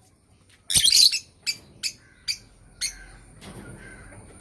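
A bird calling: one loud harsh call just under a second in, then a series of short, sharp calls about every half second, over a steady high-pitched tone.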